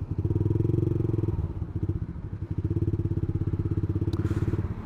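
Yamaha MX King 150's single-cylinder four-stroke engine running at steady low revs through an aftermarket racing exhaust, with an even pulsing note that drops briefly about a second and a half in. A short click comes near the end.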